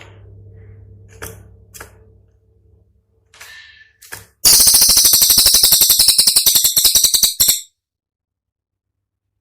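Cililin songbird calling: a few faint high chirps over a low hum, then about four and a half seconds in a loud, rapid, high-pitched rattling burst of about ten notes a second, the sharp "tembakan" volley, lasting about three seconds and cutting off abruptly.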